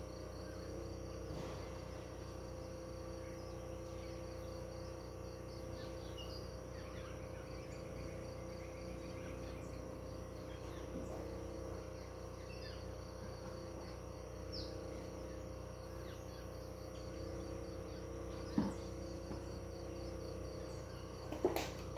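Countryside ambience of crickets trilling steadily in a fast pulsing rhythm, with a few short bird chirps. Underneath runs a low steady hum, and there are a couple of short sharp knocks near the end.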